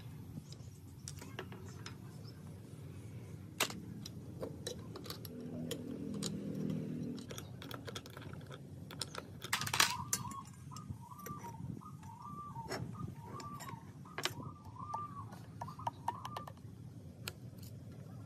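Scattered light clicks and taps, with a repeated chirping call from about ten seconds in.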